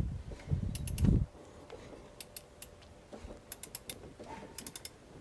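Socket ratchet on the crankshaft of a seized Cadillac V8 being worked by hand. There are a few heavy low thuds in the first second, then short runs of sharp pawl clicks as the handle is swung back between pulls. This is the engine being rotated over by hand to free it.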